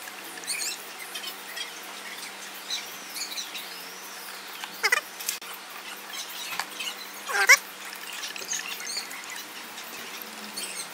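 Birds chirping and calling, with two louder sharp calls about five and seven and a half seconds in, over a faint steady hum.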